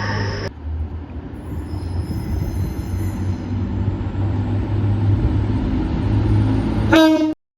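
Train running at a station platform: a steady low rumble with faint high whines. About seven seconds in, a short loud pitched blast sounds just before the sound cuts off.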